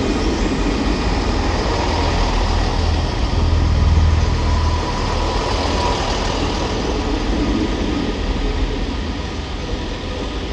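Class 158 diesel multiple unit's underfloor diesel engines running, with a deep rumble that swells to its loudest around four seconds in and then eases back.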